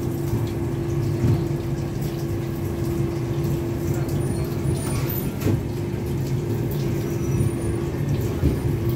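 Passenger train rolling slowly, heard from inside the coach: a steady low rumble under a constant hum, with a few brief knocks.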